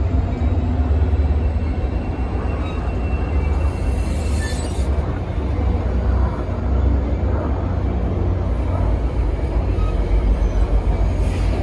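NJ Transit passenger coaches rolling slowly past as the train pulls out: a steady rumble of steel wheels on rail.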